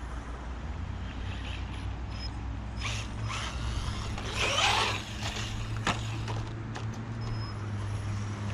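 Small brushless RC car's drivetrain and suspension clicking and creaking, with a brief whir about four and a half seconds in, over a steady low hum.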